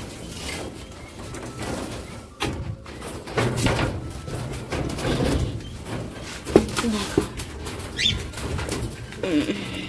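Doves cooing in low, repeated phrases, with a couple of short higher bird chirps near the end.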